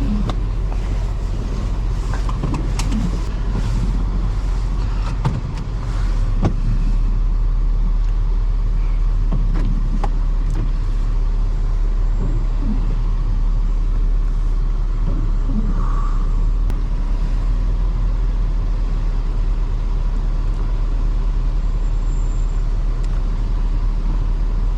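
A 2005 Toyota Highlander's 3.3-litre V6 and a low road rumble, heard from inside the cabin as it drives, the engine note rising and falling with the throttle. A few sharp clicks come in the first several seconds, and the sound gets louder about six and a half seconds in.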